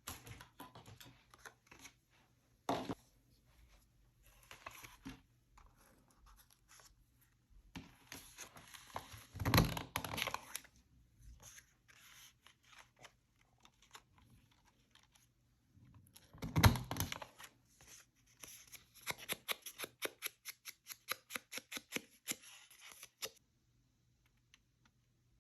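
Paper crafting by hand: paper rustled, scraped and torn, with two louder tearing scrapes and, late on, a quick run of short strokes at about five a second.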